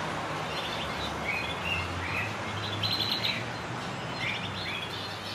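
Small birds chirping in short repeated bursts, a few at a time throughout, over a steady low background hum.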